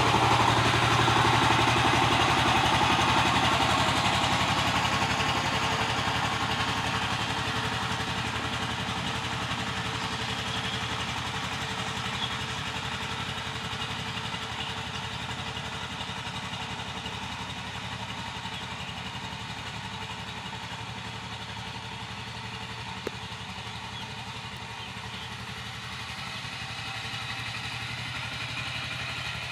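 Power tiller engine running steadily, growing fainter over the first twenty seconds and getting a little louder again near the end.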